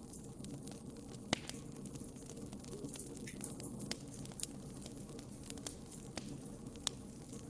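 Wood fire burning in a fireplace: a steady low rumble of flames with scattered sharp crackles and pops, the loudest pops about a second in and near the end.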